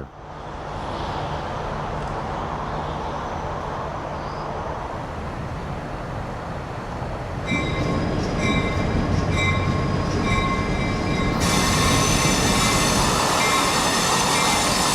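Diesel-hauled freight train running, a steady low locomotive engine hum under rolling rail noise. From about halfway through, high-pitched wheel squeal comes and goes, and the rolling noise grows louder.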